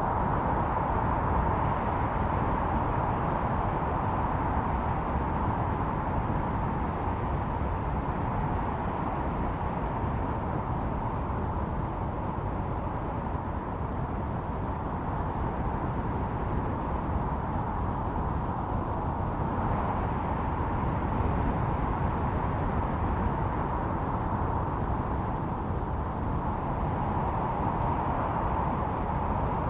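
Blizzard wind howling steadily: a constant rushing with a pitched whistling edge that swells slightly now and then.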